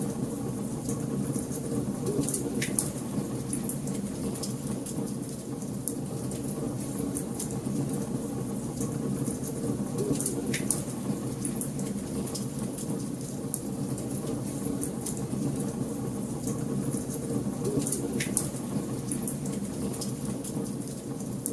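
Wood fire burning in a fireplace: a steady low rumble of flames under constant fine crackling, with three louder pops spread evenly through.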